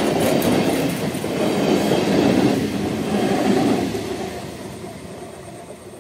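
EMU local train passing at close range, its wheels running on the rails; the sound fades away over the last two seconds.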